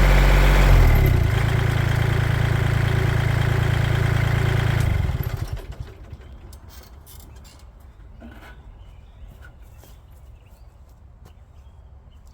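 Engine running at a steady idle, its pitch shifting briefly about a second in, then shut off about five seconds in and running down to a stop. Faint small knocks and rustles follow.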